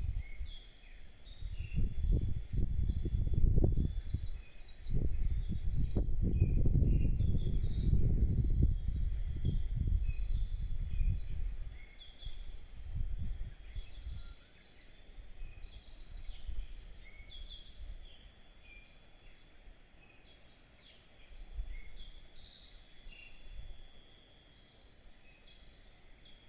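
Several small birds singing and chirping together, a dense chorus of short high notes. A loud, uneven low rumble is the loudest sound in the first half and dies away about halfway through.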